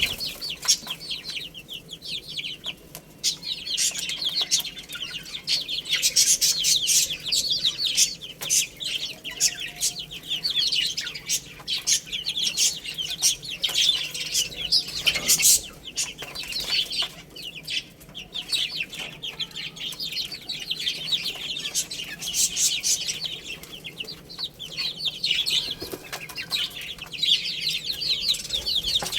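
A brood of baby chicks chirping continuously, many high peeps overlapping at once.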